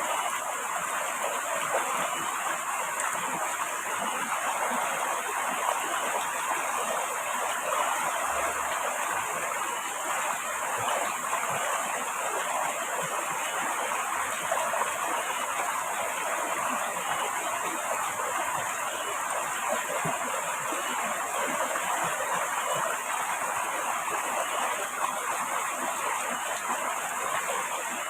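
Steady rushing water, an even hiss that holds without a break.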